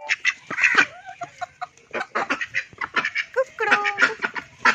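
Pet parrots squawking and chattering: a rapid run of short, sharp calls mixed with a few brief whistled notes.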